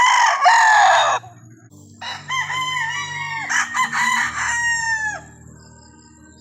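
Roosters crowing: a loud crow ending about a second in, then a second, longer crow from about two seconds in to about five seconds.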